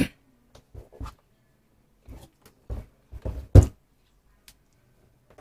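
Philips induction cooker handled and turned over onto the floor: a few scattered knocks and bumps, the loudest about three and a half seconds in as it is set down upside down.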